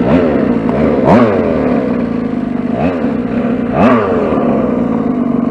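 RC short-course truck's motor whining up and down in pitch through four quick throttle blips over a steady hum.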